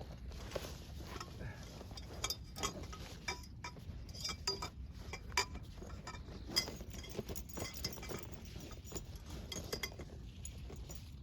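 Camping gear being handled during teardown: a scatter of irregular light clinks and knocks, with a few sharper ones.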